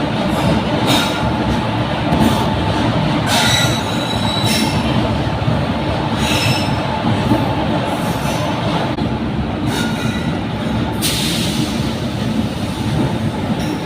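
Gwalior–Ratlam Intercity Express passenger train rolling along the platform, a steady rumble of coaches on the rails with repeated brief high-pitched wheel squeals.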